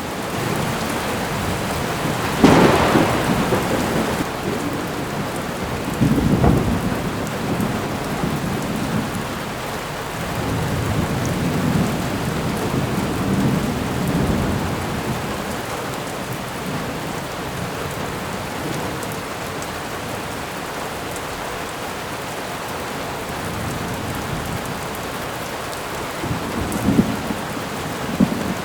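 Thunderstorm ambience: steady heavy rain with rolls of thunder, the loudest about two and a half seconds in, another about six seconds in, a longer rumble around eleven to fourteen seconds, and a shorter one near the end.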